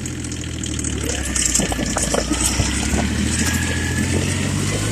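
Small Yanmar diesel tractor engine running steadily while driving. From about a second in, the tyres crunch and crackle over melting snow and slush.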